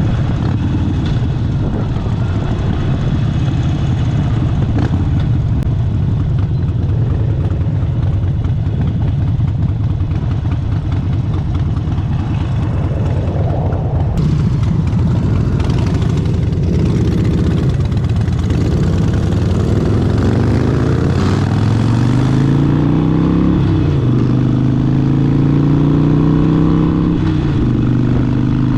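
Harley-Davidson Sportster Seventy-Two's 1200 cc V-twin engine running low and steady, then accelerating with a rising pitch through two upshifts in the last third.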